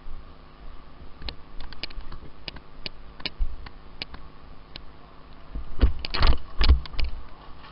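Scattered sharp clicks at irregular intervals, then a louder cluster of knocks and rustling about six seconds in.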